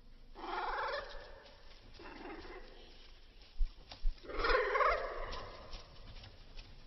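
Cockatiels giving harsh, raspy chattering calls in three bouts, the last one the loudest. Two sharp clicks come just before the last bout.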